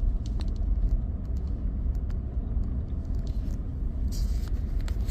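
Vehicle driving slowly on an icy gravel road, heard from inside the cab: a steady low engine and tyre rumble with faint scattered clicks.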